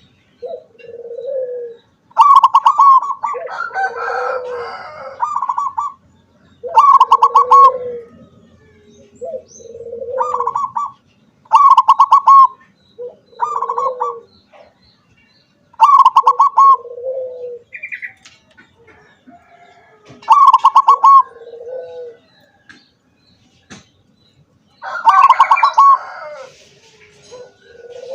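Zebra dove (perkutut) singing, repeating its phrase about every four to five seconds: a quick run of staccato higher notes followed by a lower coo.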